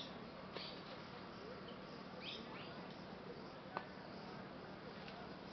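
Faint outdoor ambience: a few short, high bird chirps over a steady hiss and low hum, with one sharp click a little under four seconds in.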